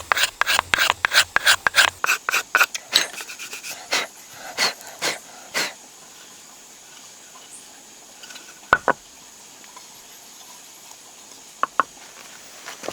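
Rapid rhythmic scraping strokes, about four or five a second, slowing and stopping about six seconds in. A few sharp knocks follow later.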